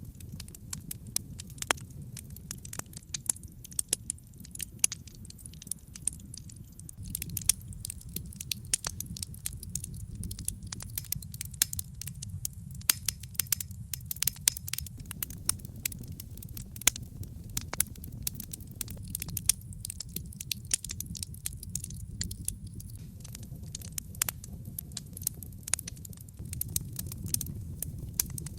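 Wood logs burning in a fireplace: a steady low rush of flame with frequent, irregular sharp crackles and pops, some louder than the rest.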